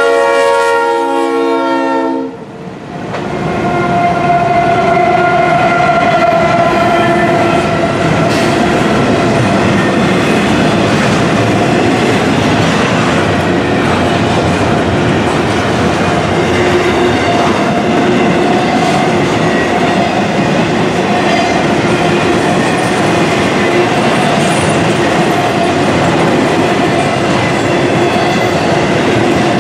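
Leslie RS3L horn on a Norfolk Southern GE D9-44CW locomotive sounding a steady chord, which cuts off about two seconds in. After it comes the steady rumble and clatter of a long intermodal freight train, double-stack container cars and trailer flatcars, rolling past at speed.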